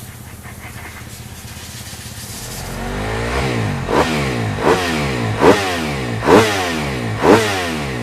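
Motocross bike engine coming closer and revving hard, its pitch climbing and dropping sharply about five times in quick succession from about three seconds in.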